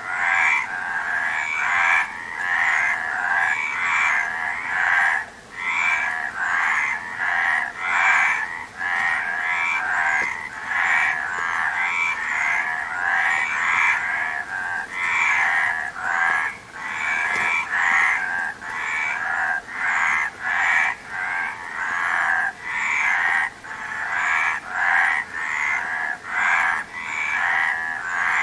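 A chorus of frogs croaking, many short calls overlapping several times a second without a pause.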